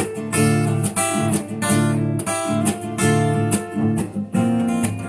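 Instrumental passage of a song: acoustic guitar strumming chords in a steady rhythm, with no singing.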